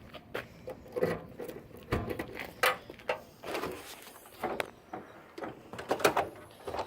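Things being handled and moved about inside a car: irregular knocks, clicks and rustling as items are rummaged through and pulled out.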